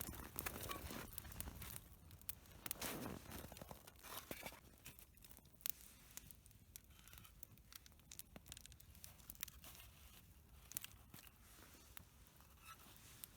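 Faint irregular crunching and rustling with scattered sharp clicks, busiest in the first few seconds and thinning out after.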